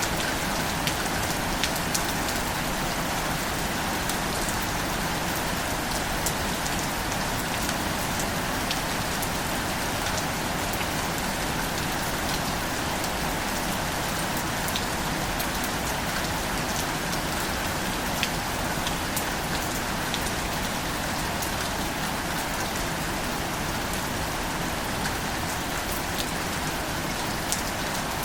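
Steady rainfall, an even hiss of rain with scattered sharp drop ticks.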